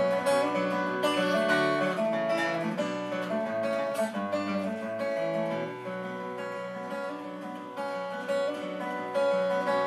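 Acoustic guitar played alone, strumming and picking chords in an instrumental break between sung verses of a folk ballad.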